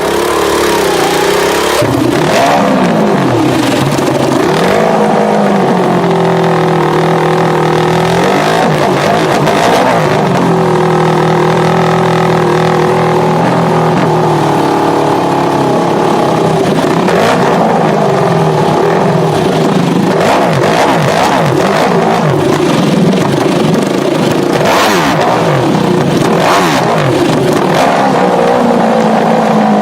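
Ducati Panigale sport bike with a MotoGP-style exhaust, revved over and over, its pitch climbing and falling and at times held steady at higher revs.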